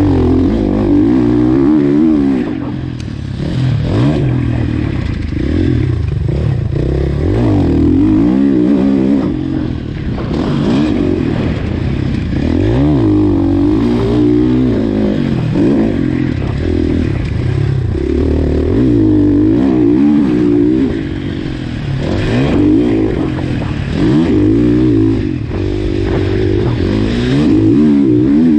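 2019 KTM 450 SX-F motocross bike's single-cylinder four-stroke engine being ridden hard, revving up and falling back over and over as the throttle is opened and shut, its pitch rising and dropping every couple of seconds.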